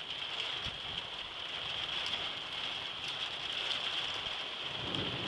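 Steady rain falling during a thunderstorm, a constant hiss with scattered drop ticks. Near the end a low thunder rumble begins to build.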